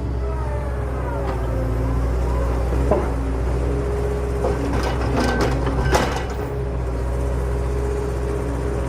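A small motor running steadily with a hum, with a few sharp clattering knocks, the loudest about six seconds in.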